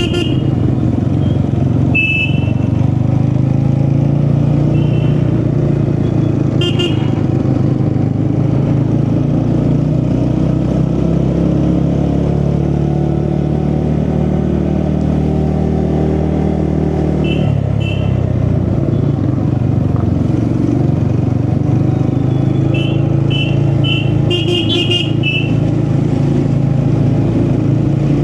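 TVS Ronin single-cylinder motorcycle engine running under way, its pitch rising and falling with the throttle and dropping suddenly about two-thirds of the way through. Short high beeps come several times, in a cluster near the end.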